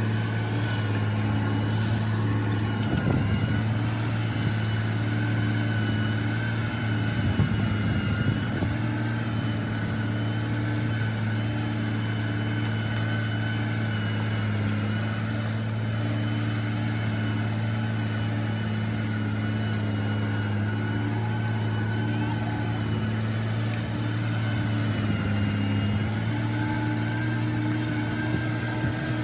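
Diesel engine of a heavy earth-moving machine running at a steady speed, with short rougher noisy patches about three seconds in and again around seven to eight seconds.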